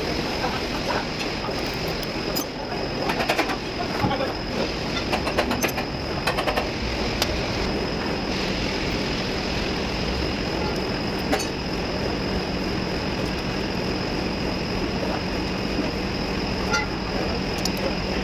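Volvo truck diesel engine running steadily, with a constant high whine over it and a patch of clicking a few seconds in.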